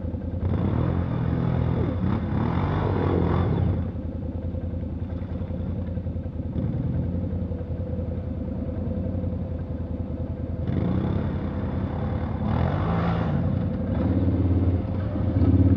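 Off-road vehicle's engine running under load in mud, revving up and down in several hard bursts: about half a second in, again around eleven seconds, and near the end.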